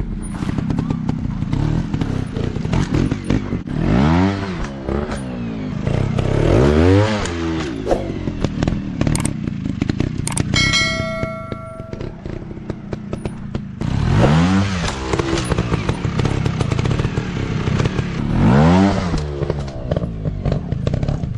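Dirt bike engines running, revved up and back down four times. A short chime-like ringing tone comes in about halfway through.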